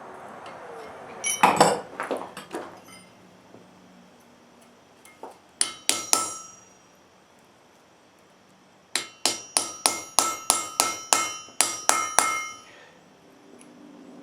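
Hammer striking a chisel to cut detail into a wrought-iron latch lever, each blow ringing sharply. A quick flurry of blows, three more a few seconds later, then a steady run of about ten blows at roughly three a second.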